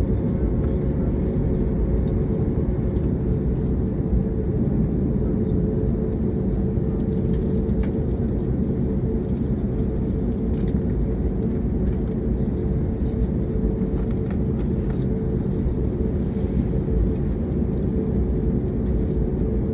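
Steady low rumble inside the cabin of an Airbus A321neo rolling on the ground just after landing, engine and wheel noise with a steady humming engine tone, and a few faint clicks.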